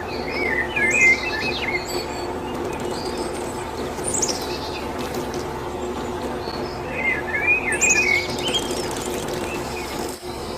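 Birds chirping in two short bursts, about half a second in and again about seven seconds in, over a steady hum.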